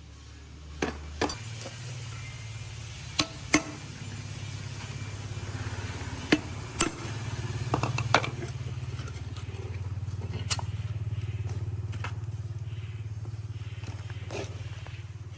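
An engine or motor running steadily with a low hum, with a sharp metallic knock now and then, like tools striking metal.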